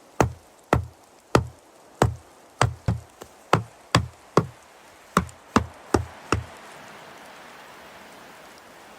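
A series of about a dozen sharp knocks, roughly two a second, stopping about six and a half seconds in; a faint steady hiss follows.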